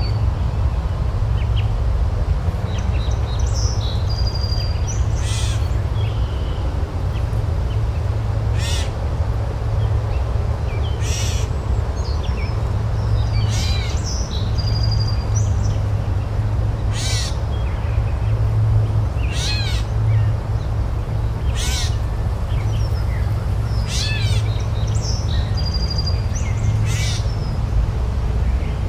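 Birds calling outdoors with short, repeated chirps and calls every second or two, over a steady low rumble.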